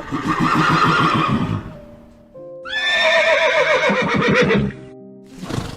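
A horse whinnying twice, each call a quavering run of pulses, the second starting high and sliding down in pitch, over background music. A short sharp sound follows near the end.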